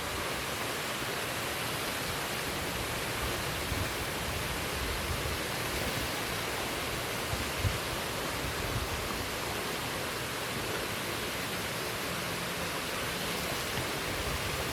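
Waterfall's steady rushing roar of falling water, with a brief low thump about seven and a half seconds in.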